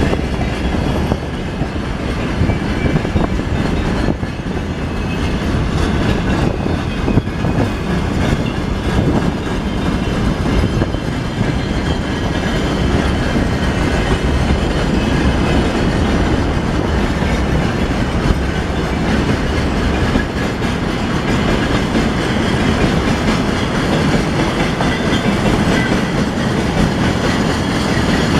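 Freight train wagons rolling past steadily, their wheels clacking over the rail joints.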